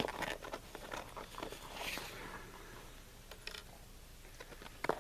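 Faint, scattered light clicks and rustles of small rifle parts and tools being handled on the bench, with one sharper click near the end.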